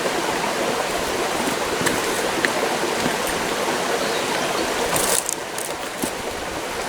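Mountain stream rushing steadily. About five seconds in, it gets a little quieter and a few sharp clicks or knocks are heard.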